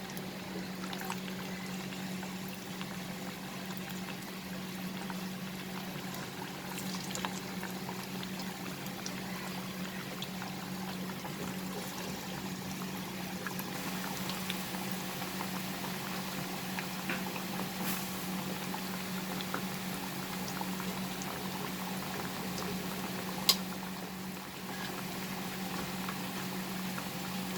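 Batter-coated chicken pieces deep-frying in hot oil in a karhai: a steady sizzle with scattered small crackles. A steady low hum runs beneath, and there is one sharp click a little past three quarters of the way through.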